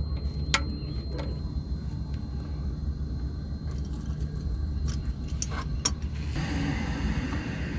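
A torque wrench clicks sharply about half a second in as a bolt is torqued to spec, followed by a few lighter metal clinks of tools near six seconds, over a steady low rumble.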